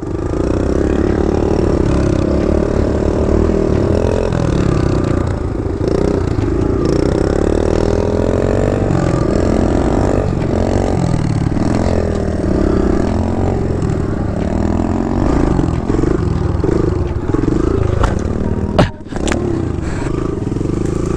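Kawasaki KLX 110 dirt bike's small single-cylinder four-stroke engine running under way on a loose trail, its pitch rising and falling with the throttle. A couple of sharp knocks come near the end.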